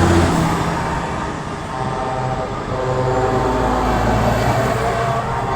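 Heavy trucks driving slowly past, several diesel engines running at once with overlapping pitches over steady road noise.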